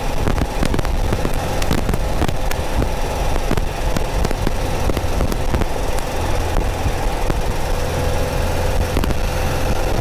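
Porsche 914's 2.0-litre air-cooled flat-four engine running steadily while the car drives along, picked up from behind the rear window. A constant crackle of clicks from microphone static runs over it.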